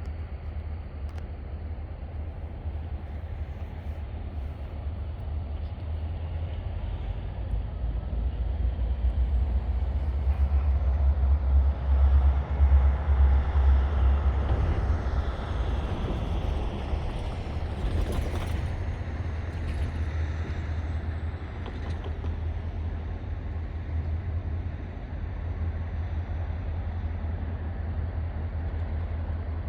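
EMD GP40-2 diesel locomotives working, a deep engine rumble that builds to its loudest about halfway through and then eases off, with a few sharp clanks a little later.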